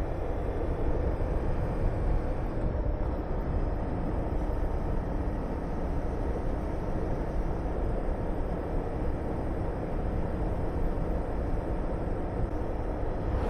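Honda VTR250 motorcycle riding at a steady pace: its V-twin engine running under a heavy, steady rush of wind over the microphone.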